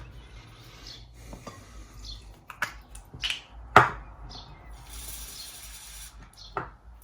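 Small clicks and knocks of tools and parts handled on a workbench, the sharpest a little under four seconds in, with a short hiss near the middle.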